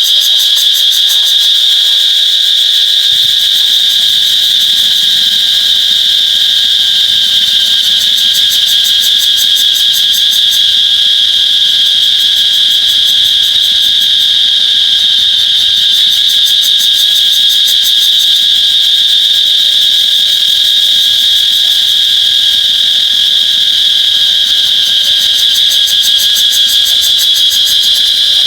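Cicadas singing: a loud, continuous high-pitched buzz that holds steady and unbroken.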